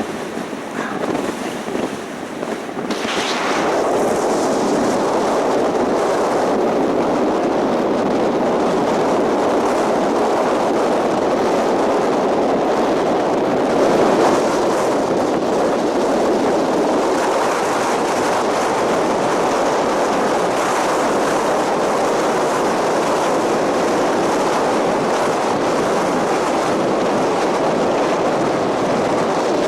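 Strong mountain wind blasting across the microphone: a loud, steady rush that builds over the first few seconds and then holds.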